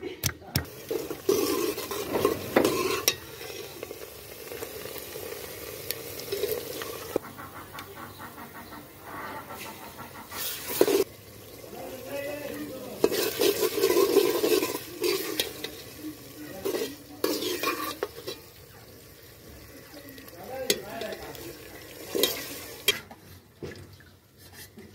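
A few knocks of a wooden pestle on a grinding stone, then onions frying in oil in a steel pot, sizzling as a metal ladle stirs them and a paste of ground garlic, ginger and green chilli is added. The sizzle comes in louder spells.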